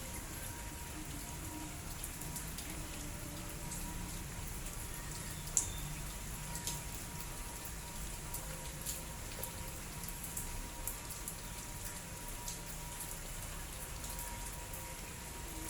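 Light drizzle, with scattered raindrops ticking on a surface and one louder drop about five and a half seconds in.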